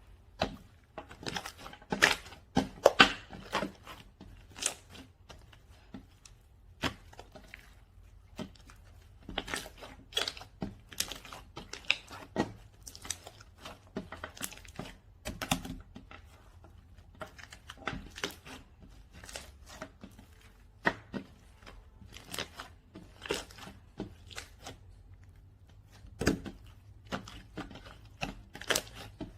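Slime being squished, poked and pulled by hand, giving irregular sticky clicks and crackles, several a second at times with short pauses between.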